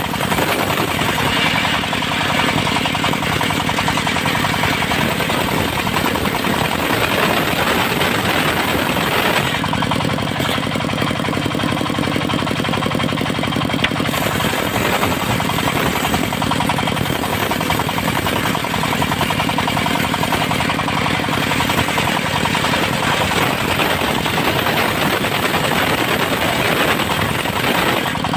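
Diesel-driven mobile circular sawmill running continuously, its engine giving a fast, steady pulse under the blade as mahogany is sawn. The higher sawing noise eases off about ten seconds in and returns a few seconds later.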